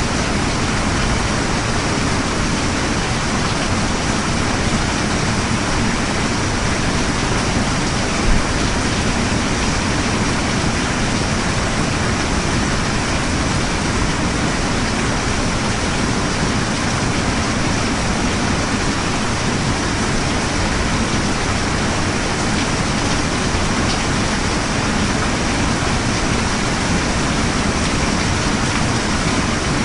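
Steady, even rain falling, a continuous hiss with no let-up.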